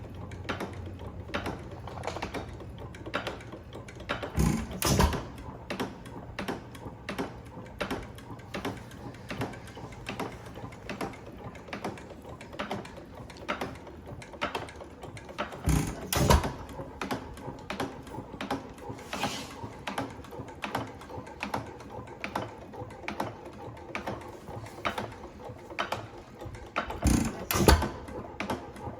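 IHC Famous 2-1/2 hp hit-and-miss gas engine running: steady rhythmic clicking of its valve gear as the flywheels coast on misses. Three times, about eleven seconds apart, it fires with two quick, louder strokes when the governor lets it take a charge.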